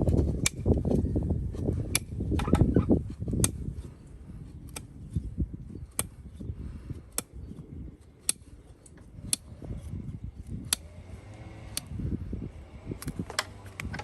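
Farrier working on a horse's hoof: rough scraping noise for the first few seconds, then quieter, with sharp clicks about once a second throughout.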